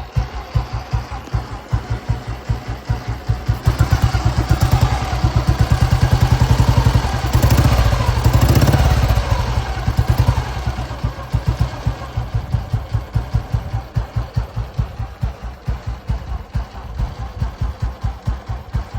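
1981 Royal Enfield Bullet's single-cylinder four-stroke engine idling with even, evenly spaced thumps. About four seconds in, the throttle is opened and the engine revs up, then eases back down to idle. Its cam wheels are freshly reworked, and the owner calls it a silent engine.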